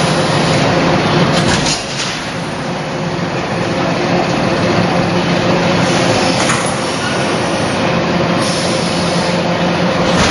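Factory production-line machinery running: a loud, steady mechanical hum and noise with a few short sharp knocks or hisses.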